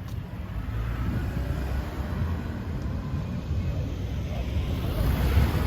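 Car engine and exhaust running with a steady low rumble as a vehicle moves out, growing louder over the first second or so.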